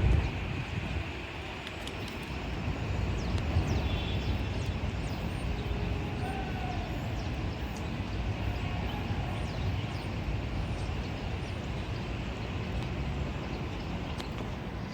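Gusty wind buffeting the microphone over a steady low rumble of outdoor rail-station background. The sound of a Metro-North train dies away in the first second.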